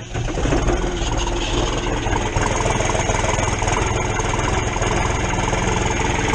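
New Holland TN70 tractor's diesel engine catching on a cold start, the sound jumping up as it fires, then settling into a steady idle. The tractor has sat unstarted for a couple of days in about 18-degree cold.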